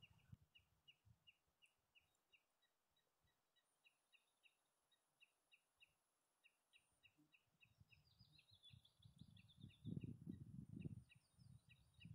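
Faint bird song: a small bird repeating short high chirps, about three a second, breaking into quicker trills twice in the later part. A low rumble comes in about ten seconds in.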